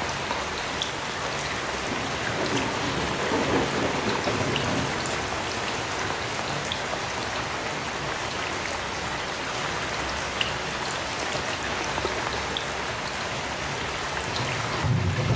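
Heavy rain falling steadily, with individual drops ticking sharply through the wash. A low, distant thunder rumble swells briefly about three seconds in and builds again near the end.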